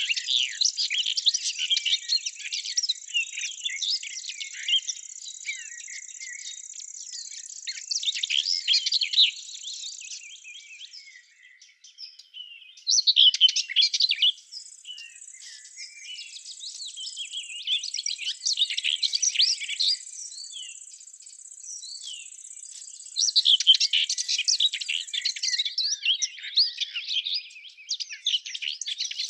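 Small songbirds chirping and twittering in overlapping bursts, over a steady high-pitched insect-like buzz that drops out for a few seconds about ten seconds in and again near the end.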